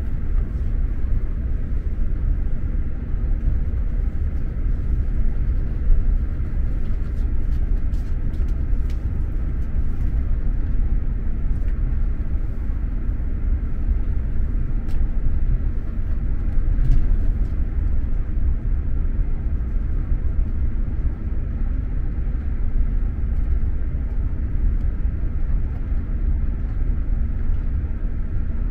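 Steady low rumble inside an X2000 high-speed train carriage, with a few faint clicks about a third of the way in.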